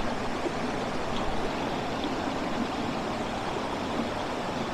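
Steady rush of a stream running over rocks, with water trickling down between small pools.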